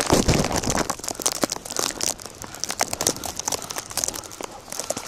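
Footsteps crunching through deep fresh snow, a run of irregular crunches and crackles.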